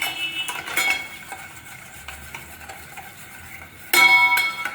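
A spoon stirring beaten eggs and sugar in a bowl, scraping and clinking against the bowl. Near the end comes a loud clink that rings with several pitches.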